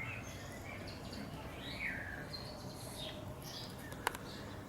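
Birds chirping, with short high calls scattered over a steady low background rumble; a single sharp click about four seconds in.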